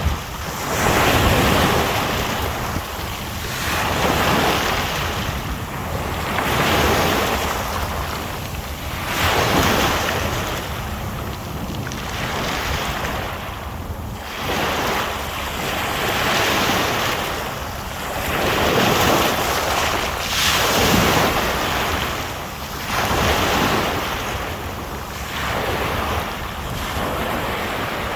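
Sea waves washing onto the shore, each surge swelling and ebbing about every two to three seconds.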